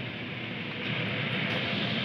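Electric commuter train running noise, a steady rushing sound that grows louder about a second in.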